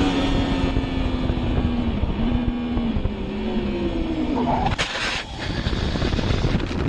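Motorcycle engine running with its pitch easing downward, like a bike slowing. A short burst of noise comes about five seconds in.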